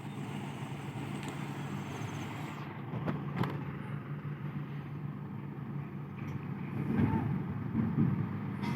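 Heavy truck engine idling steadily, with two sharp knocks about three seconds in and louder swells near the end.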